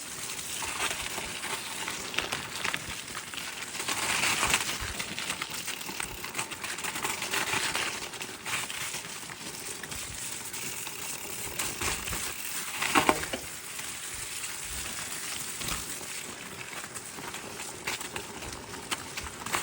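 Cannondale Topstone gravel bike's tyres rolling over gravel: a steady crunching crackle full of small clicks, with a louder surge about two-thirds of the way through.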